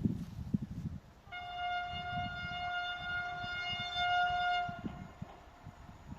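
Horn of an SM42 diesel shunting locomotive sounding one long, steady single-note blast for about three and a half seconds, starting about a second in, over low irregular knocking.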